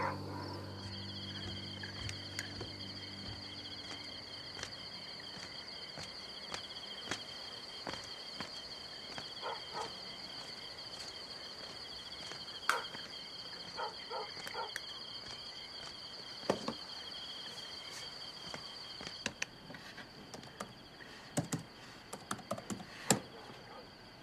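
Insects trilling steadily at two high pitches, the lower trill stopping near the end, with scattered faint clicks and short chirps.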